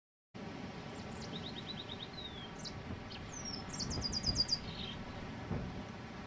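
Birds chirping over a steady background: a quick run of short high notes, a few downward-sliding calls, then a fast high trill near the middle. A few low thumps come at the same time as the trill.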